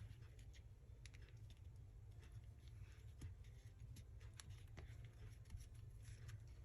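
Near silence with faint, scattered small taps and rustles of paper tags and circles being handled and pressed down while gluing.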